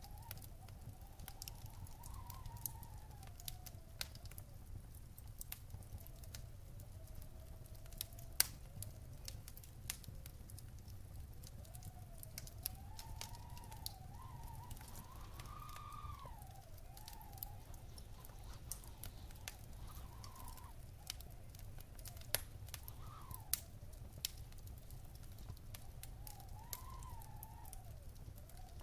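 Wood fire crackling in a stone fireplace, with irregular sharp pops, the loudest about eight seconds in, over a steady low rumble. A faint wavering tone rises and falls at times.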